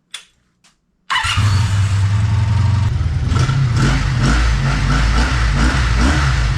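Two short clicks, then about a second in the Honda V65 Magna's V4 engine comes in abruptly and runs loud and steady, with a deep low-pitched exhaust note.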